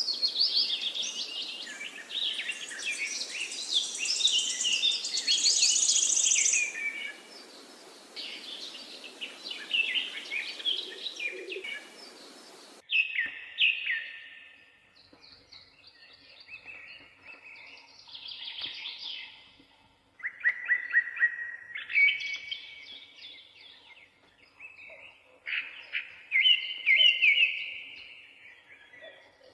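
Parakeets chirping and twittering, dense and continuous over a background hiss for the first half, then, after a sudden cut about thirteen seconds in, in separate short bursts with pauses between.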